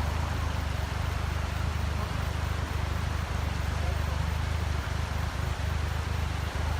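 Car driving at a steady speed, heard from inside: a constant low engine and road rumble with tyre hiss.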